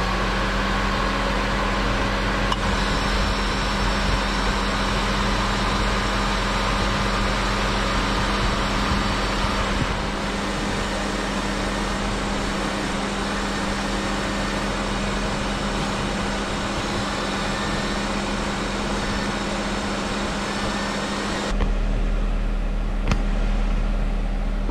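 Honda CR-V four-cylinder engine idling steadily, a constant hum with a steady low tone. Near the end the sound turns duller and deeper.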